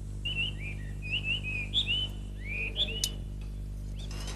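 Birds chirping and whistling in a string of short rising and falling calls, over a steady low hum.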